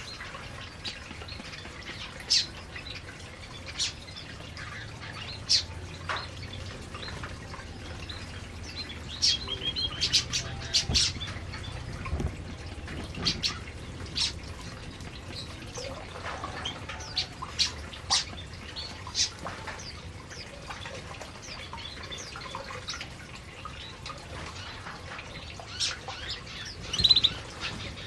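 Canaries giving scattered short chirps and calls, mixed with sharp little clicks; a brief burst of chirps near the end is the loudest.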